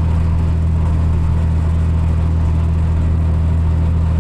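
Farm tractor engine running at a steady speed, a constant low drone heard from inside the cab, with the tractor working a rotary cutter (bush hog).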